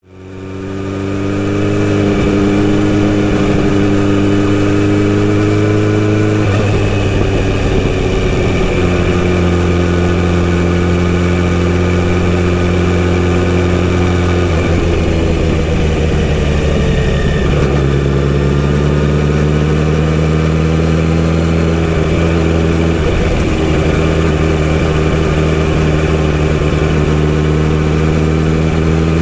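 Kawasaki Z900RS inline-four motorcycle engine running through a full-system sports exhaust, a steady note whose engine speed shifts slightly up and down several times. The sound fades in over the first couple of seconds.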